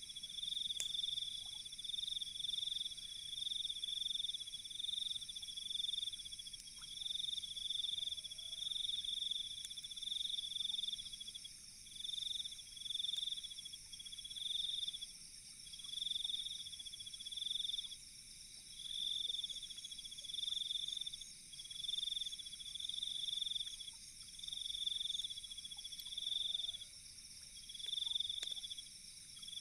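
Night insects chirping in pulsed trills, each swell about a second long, repeating one after another over a steady higher insect trill. A few faint fire crackles sound now and then.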